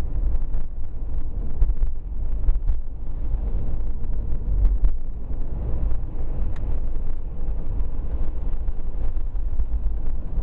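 Steady low road and engine rumble inside the cabin of a four-wheel-drive vehicle driving on a snowy road, with faint scattered ticks.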